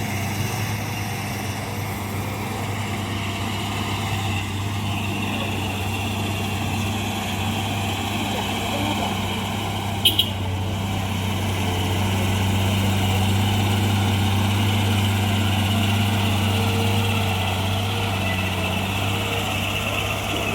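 Heavy truck engine running with a steady low drone, growing louder in the second half. A short, sharp double click comes about halfway through.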